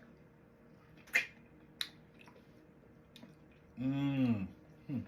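Biting and chewing juicy pepino melon: two sharp wet mouth clicks in the first two seconds, then a hummed "mmm" about four seconds in.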